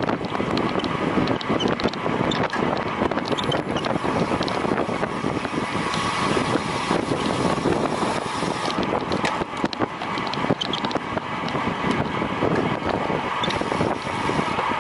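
Wind rushing over the microphone of a camera carried by a cyclist riding at racing speed, a dense, steady noise with constant buffeting.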